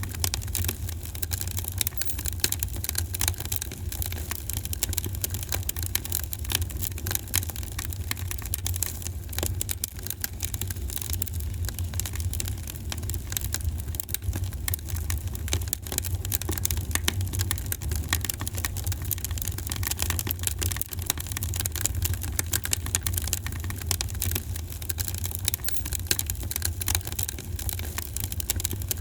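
Wood fire in a fireplace crackling continuously, with many small irregular pops over a steady low rumble.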